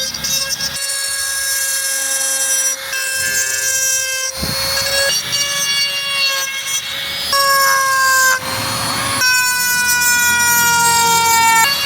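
High-speed rotary carving tool whining steadily at a high pitch, with two short stretches of rough grinding noise about four and eight seconds in as the bit cuts into wood. Near the end the pitch slides slowly down.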